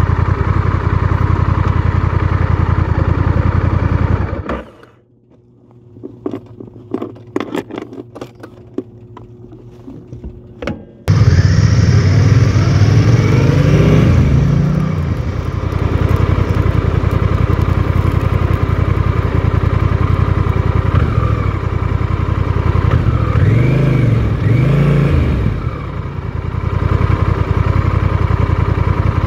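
Honda Rebel 1100's parallel-twin engine running as the motorcycle is ridden at low speed. The engine revs up and down twice, with rising and falling pitch. About four seconds in it gives way to a quiet stretch with scattered clicks, then cuts back in suddenly, loud and close, as if heard from a handlebar-mounted camera.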